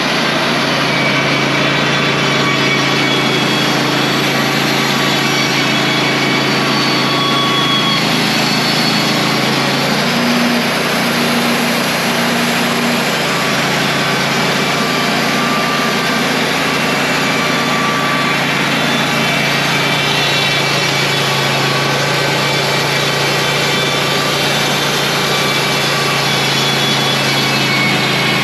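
Wood-Mizer portable band sawmill running at a steady speed: the engine holds an even hum, with band-saw noise over it, and the level stays unchanged throughout.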